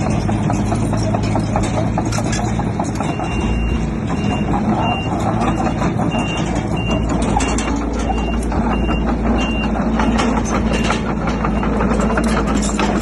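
Heavy diesel earthmoving machinery running steadily with a constant rattle, while a reversing alarm beeps about one and a half times a second for several seconds in the middle, then stops.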